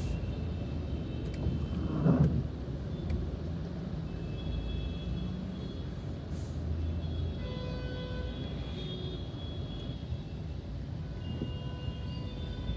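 Škoda Kylaq's three-cylinder turbo petrol engine humming at idle in traffic, heard inside the cabin. About seven seconds in the hum stops as the auto start-stop system shuts the engine off. A brief loud noise comes from outside about two seconds in.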